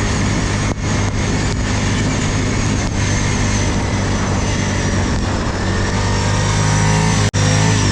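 ATV engine running steadily under way, getting slightly louder toward the end, with a very brief break in the sound near the end.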